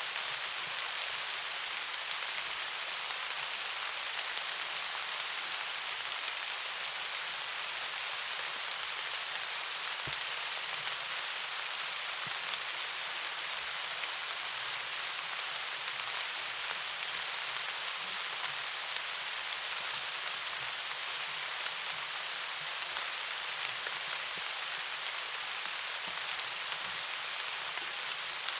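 Steady, even rainfall: a dense hiss of rain with a few faint drop ticks scattered through it.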